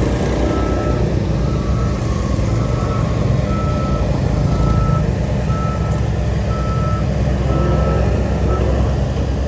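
Reversing alarm on a diesel earthmoving machine beeping about once a second over the machine's steady low engine rumble; the beeping stops shortly before the end.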